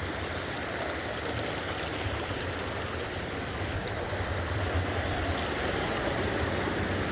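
Running water from a stream rushing steadily.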